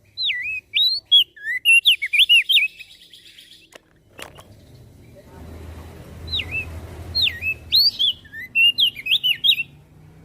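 Opior jambul (crested white-eye) singing two quick phrases of rising and falling whistled notes, a couple of seconds apart. A couple of sharp clicks come between the phrases, and a low background rumble starts there.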